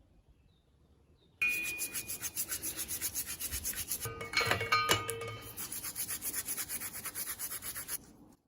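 Rusty steel wrench being rubbed by hand with rapid back-and-forth strokes, about four or five a second. The rubbing starts suddenly about a second and a half in and stops near the end, with a few short metallic rings in the middle.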